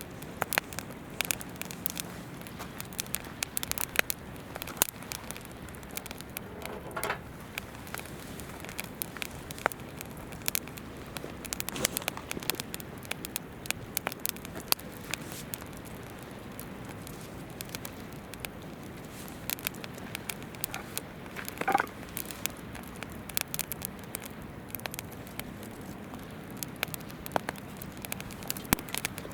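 Wood campfire crackling and popping in irregular sharp snaps over the steady murmur of a flowing river, with two brief whistling sounds, about a third of the way in and again about three quarters of the way through.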